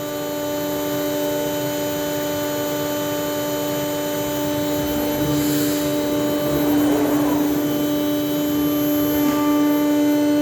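ShopSabre Pro 408 CNC router running, its spindle whining steadily as the bit cuts a sheet of HDPE marine plastic (King StarBoard), with a brief hiss about five and a half seconds in.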